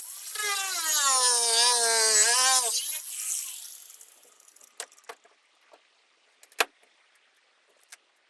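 Power tool cutting into the boat's fiberglass, its motor whine dipping and rising in pitch as the load changes, then winding down about three to four seconds in. A few light clicks and knocks follow, one sharper knock just past the middle.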